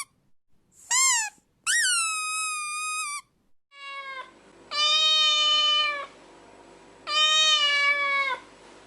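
A small animal's high-pitched, meow-like cries: a short cry, a longer one, a faint brief one, then two long, lower drawn-out cries.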